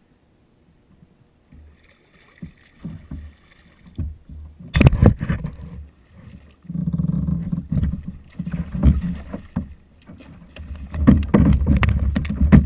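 Water sloshing and splashing around a plastic kayak, with sharp knocks and bumps against the hull, the loudest about five seconds in and again near the end.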